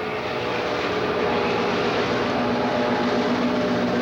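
Diesel locomotive running: a steady engine drone with a low hum that holds throughout.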